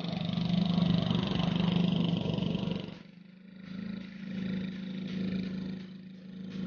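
Hand tractor engine running steadily with an even hum. It is louder for the first three seconds, then drops in level and keeps running.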